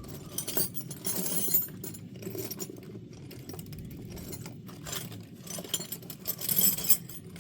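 Metal hand tools and sockets clinking and rattling as someone rummages through a toolbox for a socket. The rattling comes in two busier spells, one starting about half a second in and another near the end.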